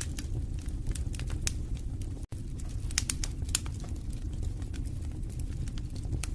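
Wood fire in a fireplace crackling: many sharp, irregular pops and snaps over a steady low rumble of the flames. The sound cuts out for an instant a little over two seconds in.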